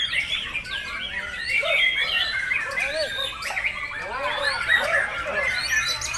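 White-rumped shama singing a fast, unbroken stream of varied whistles and chirps.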